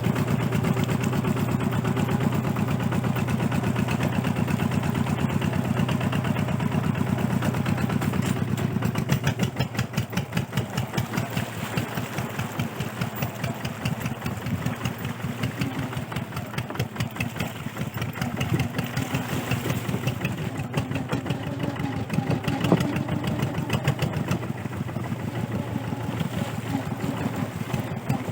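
Kubota RT140 single-cylinder diesel engine running with a fast, even chugging beat; it gets quieter about nine seconds in.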